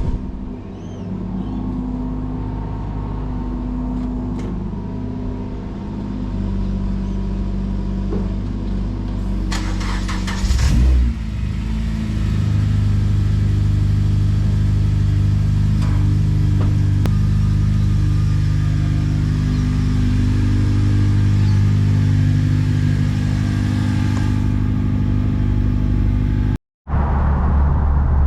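Car engines running, a steady low drone, with a brief loud burst of noise about ten seconds in. The sound cuts out for a moment near the end.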